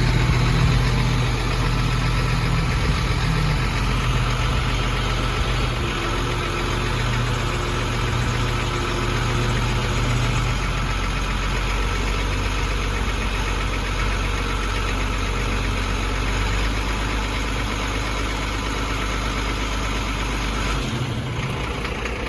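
Inline six-cylinder turbo diesel of a 1991 Ford F600 dump truck running steadily with the power take-off engaged, driving the hydraulic pump that raises the dump bed. Its note changes about ten seconds in and again near the end.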